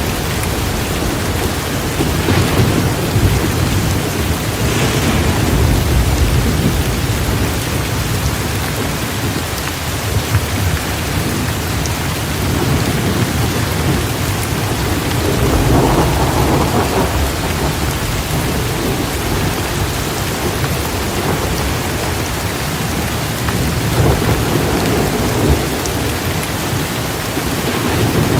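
Heavy, steady rain pouring down during a thunderstorm, with low rolls of thunder swelling and fading several times.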